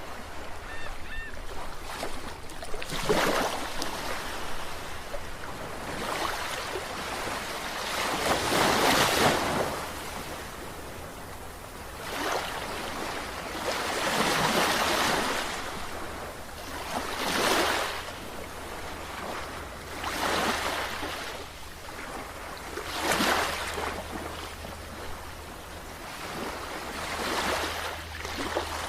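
Sea waves washing in and breaking, one surge of rushing water every three to five seconds, over a steady low rumble.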